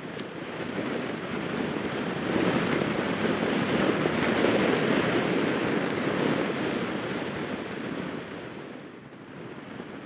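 Strong wind buffeting the microphone in a steady, noisy rush that swells in gusts, strongest in the middle and easing near the end.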